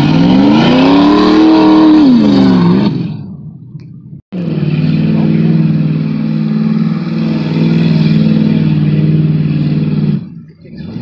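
Chevrolet Corvette C3's V8 engine revving, its pitch rising and falling back over the first three seconds. After a sudden break it runs at a steady high pitch under load for about six seconds, then drops off near the end.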